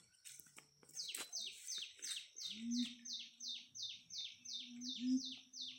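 A bird calling in a rapid series of short, steeply falling high notes, about three a second, starting about a second in.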